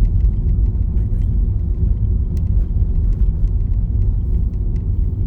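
Steady low rumble of a car driving, heard from inside the cabin, with scattered faint ticks over it.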